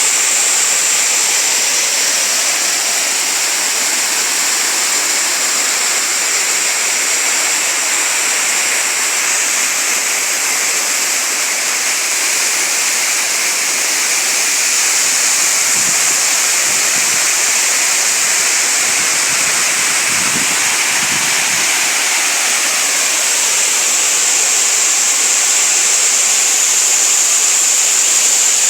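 Waterfall and stream water falling and rushing steadily, a dense even hiss of white water.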